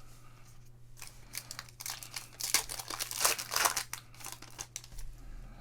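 A trading card pack's foil wrapper being torn open and crinkled: a dense run of crackling that builds about a second in, is loudest in the middle and dies away near the end.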